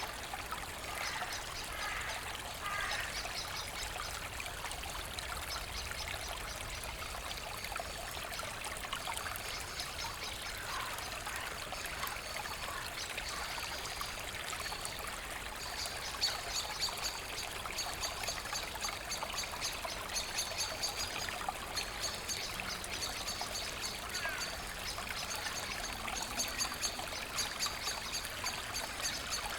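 Forest brook flowing steadily over stones, a constant trickling and splashing. About halfway through, a fast, high, rapidly repeated ticking or chirping joins the water.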